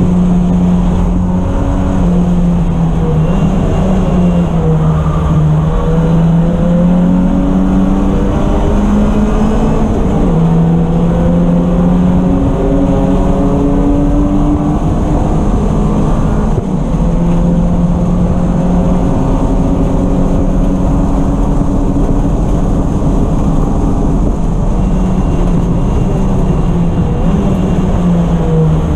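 Race car engine running hard on track, its pitch climbing and dropping again and again as it accelerates and lifts, over a heavy low rumble.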